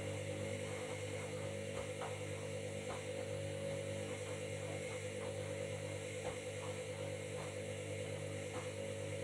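Washing machine running, a steady motor hum with faint irregular knocks.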